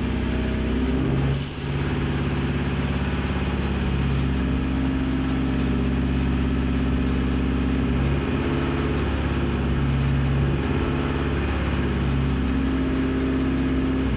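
Mitsubishi 4B12 2.4-litre four-cylinder petrol engine running on a test stand, idling steadily with its speed shifting slightly a few times.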